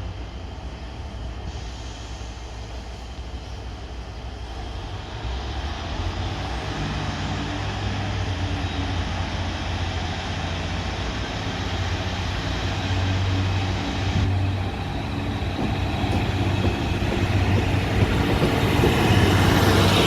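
Diesel multiple unit train running, its low engine hum and wheel noise growing steadily louder.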